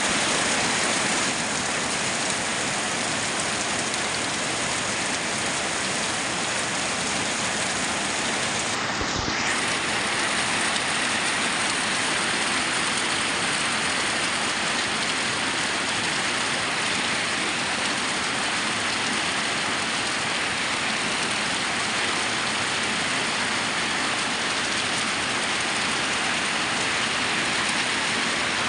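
Heavy rain falling steadily, a dense, even hiss, briefly dulled with a low knock about nine seconds in.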